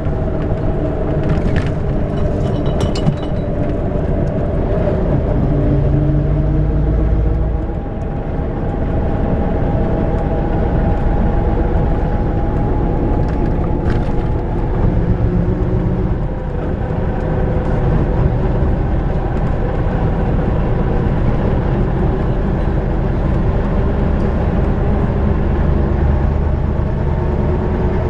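Ikarus-250.95 coach's YaMZ diesel engine running under way, with a strong low rumble. Its pitch shifts in steps a few times as the bus changes speed and gear. A few light rattles are heard near the start.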